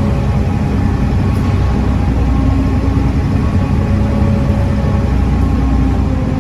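Volvo D7C 7.3-litre six-cylinder diesel engine of a Volvo B7TL double-decker bus running steadily under way, its note stepping up slightly a little over two seconds in.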